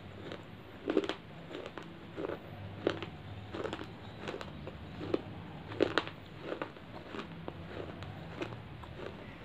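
Dry clay chips crunched between the teeth close to the microphone, a crisp crunch about every two-thirds of a second, steady chewing.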